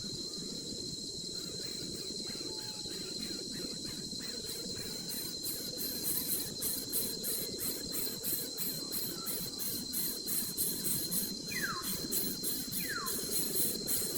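Insects, crickets or similar, chirping in regular pulses over a steady high-pitched drone. Near the end come a few short, falling whistled calls from a bird.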